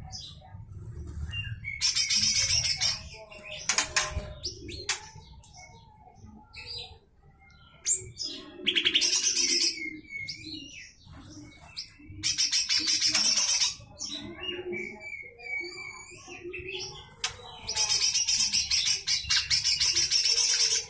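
Cucak hijau mini (lesser green leafbird) giving harsh, rasping call bursts, five in all and lasting from under a second to about three seconds each, with softer chirps between them.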